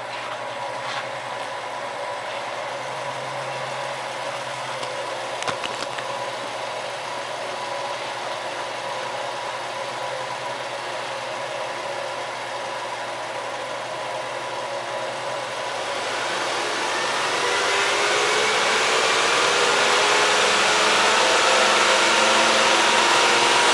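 Nissan Note 4WD's petrol engine idling steadily. About two-thirds of the way through, the revs rise gradually over a few seconds and are then held higher and louder.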